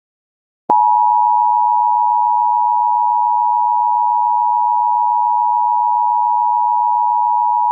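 Emergency Alert System attention signal: a loud, steady two-tone alarm (853 and 960 Hz sounded together) that starts with a click just under a second in and holds without change.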